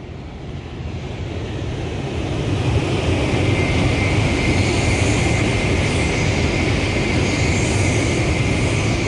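Sanyo Shinkansen high-speed train passing at speed. The noise swells over the first two or three seconds and holds loud, with a low rumble, a steady high whine and hiss, then begins to fade near the end.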